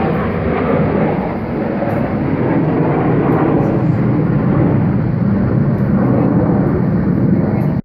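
Aircraft flying past at an air show: a loud, steady rush of engine noise that cuts off suddenly at the end.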